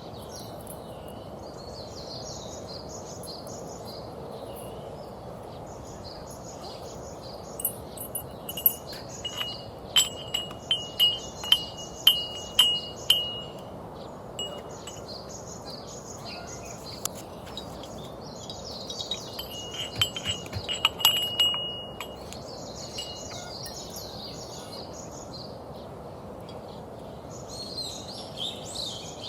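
Two clusters of light, ringing metallic clinks and chimes, the first lasting about five seconds from around eight seconds in and the second lasting a couple of seconds from around twenty seconds in. Birds chirp in short repeated phrases throughout.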